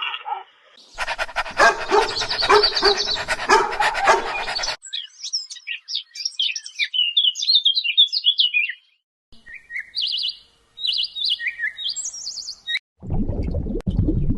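A run of cut-together animal sounds: a dense, noisy stretch of calls for about four seconds, then birds chirping and calling in quick high notes, then a low rushing noise starting near the end.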